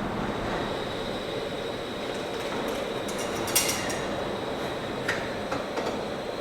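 A steady roaring rush underneath a few sharp metallic clinks of pots and utensils being handled for tea-making. The loudest clink comes about three and a half seconds in.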